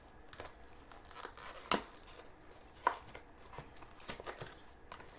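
Plastic snack-bar wrapper being torn open and crinkled, a series of sharp crackles with the loudest just under two seconds in.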